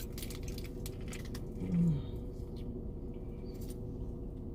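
Close-up mouth sounds of someone chewing a bite of a breakfast sandwich: soft wet clicks for the first second and a half, and a short closed-mouth 'mm' about two seconds in, then quieter chewing.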